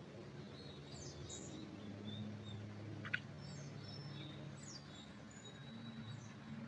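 Small forest birds chirping and calling in short, high notes scattered throughout, with one sharper, louder note about three seconds in, over a low steady background hum.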